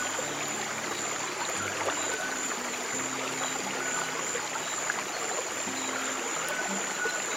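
Steady rush of a flowing stream, with soft, low, sustained music notes changing slowly underneath.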